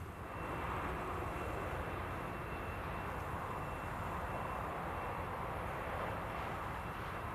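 Steady noise of a Boeing 777-300ER jet airliner heard from on board: a broad, even rush with a faint steady high tone over it, which gets louder about half a second in and then holds level.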